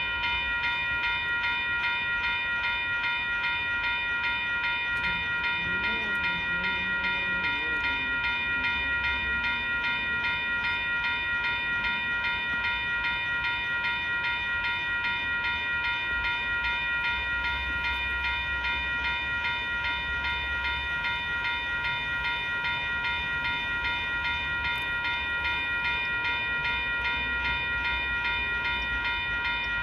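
Railway level-crossing warning bell ringing continuously at a steady fast rate, over a low rumble.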